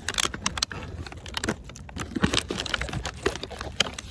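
Wood bonfire crackling, with irregular sharp snaps and pops over a low rumble.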